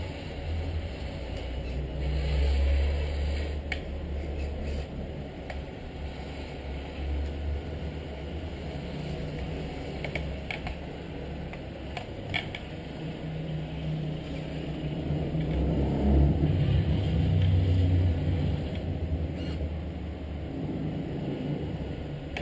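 1/14-scale radio-controlled Scania R620 timber truck running, a low drone that swells about two seconds in and again for a few seconds past the middle, with a few scattered clicks.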